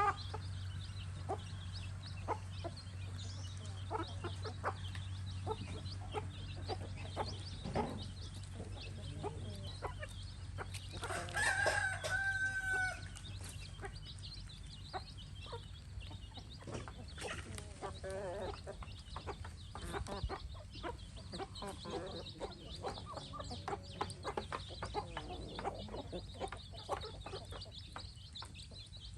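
Free-range chickens clucking, with a rooster crowing once about halfway through.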